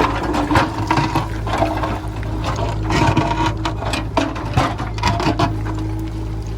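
A JCB 3DX backhoe loader's diesel engine runs steadily while its bucket scrapes and knocks against stony ground, with rocks and stones clattering at irregular moments.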